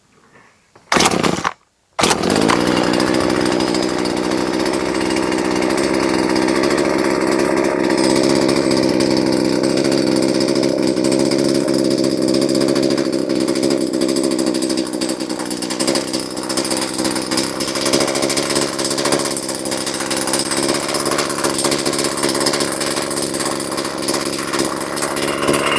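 Husqvarna 240 two-stroke chainsaw with a freshly fitted replacement engine: a short burst about a second in, then it starts at about two seconds and runs steadily.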